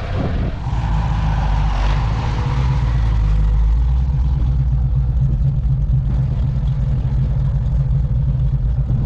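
A car engine running steadily close by with a deep, loud rumble.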